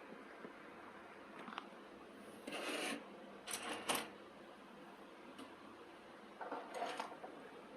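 Short bursts of mechanical rattling and a few sharp clicks over a faint steady hum.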